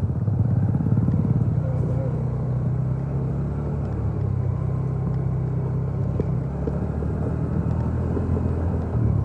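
A motor vehicle's engine running steadily, a low hum with a rapid pulsing in the first second or so.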